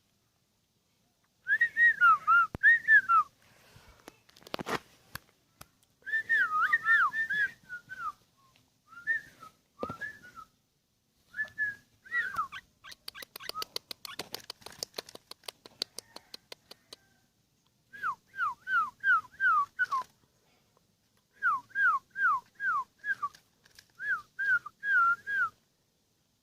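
Sooty-headed bulbul singing: short whistled phrases of slurred notes, given in bursts with pauses between them, including runs of four or five quick falling notes in the second half. About halfway through comes a rapid run of clicks.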